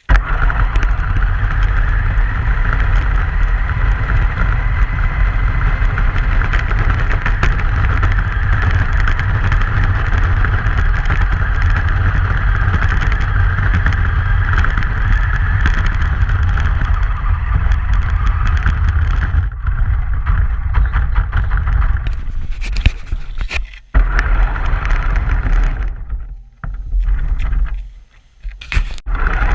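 A truck driving in snow, recorded by a camera riding with it: a loud, steady rumble of engine and road noise. Near the end the sound cuts out briefly several times, with a few sharp knocks.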